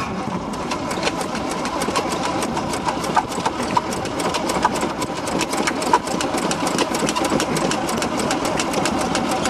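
1978 Jeep CJ5's AMC 304 V8 being cranked over on the starter in a cold start, turning steadily with a rapid even pulse but not catching. The battery is running low.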